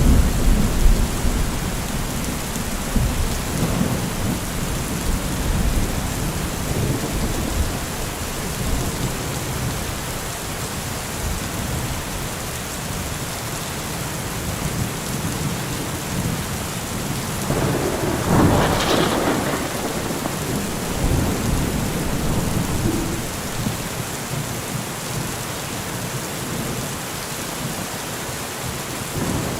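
Heavy rain pouring steadily, with a deep low rumble in the first few seconds and a brief louder rush about two-thirds of the way through.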